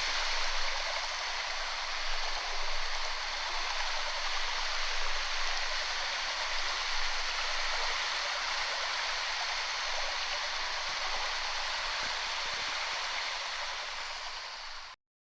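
Waterfall: a steady, even rush of falling water that eases slightly near the end, then cuts off abruptly.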